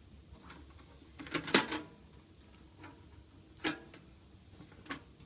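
A few sharp clicks and knocks from objects being handled: a quick cluster about a second and a half in, the loudest, then single clicks a couple of seconds later and near the end.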